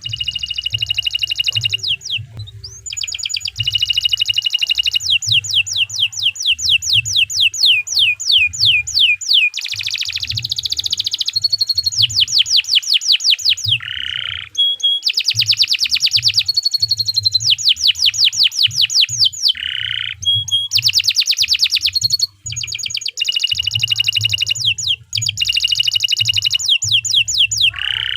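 Canary singing a long, vigorous song of rapid trills and rolls: fast runs of repeated notes that switch to a new phrase every second or two, with only brief breaks.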